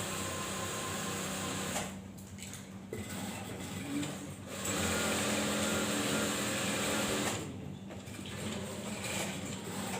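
Typical sewing machine, freshly threaded, stitching in two runs: one of about two seconds at the start and a longer one of about three seconds from about five seconds in, with quieter stretches between.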